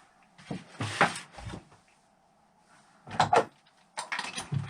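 Short knocks and clicks of metal tools and engine parts being handled, in scattered single hits and then a quick cluster near the end, while the engine is turned to its T timing mark.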